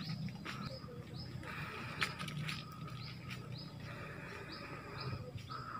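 Faint outdoor ambience with scattered short bird chirps, a second or so apart.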